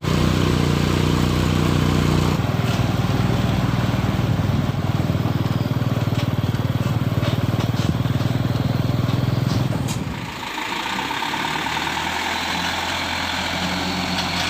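Dump truck's diesel engine running steadily. About ten seconds in, its low tone drops and a higher hiss rises.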